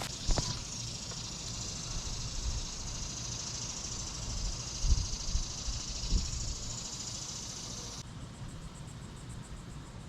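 Steady high-pitched insect buzzing that cuts off abruptly about eight seconds in, over a low rumble, with a few dull knocks.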